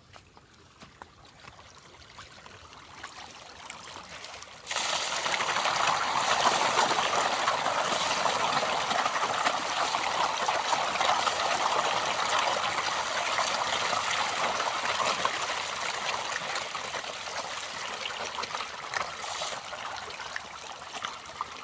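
Pond water splashing and churning as a shoal of farmed fish thrashes at the surface during feeding. It starts suddenly about five seconds in and then carries on steadily, easing slightly toward the end.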